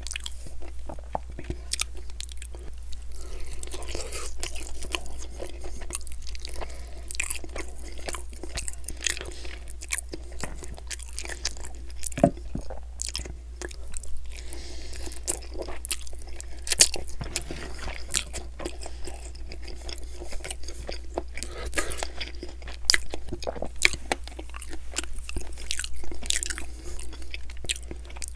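Close-miked chewing and biting of buffalo chicken wings, a steady run of crunching and sharp irregular clicks with a few louder crunches, over a steady low hum.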